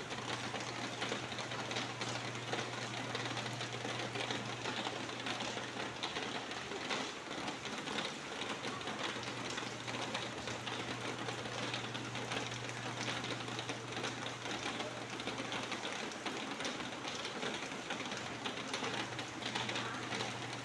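Steady rain falling: a dense, even patter of many drops, with a low steady hum underneath that drops out briefly twice.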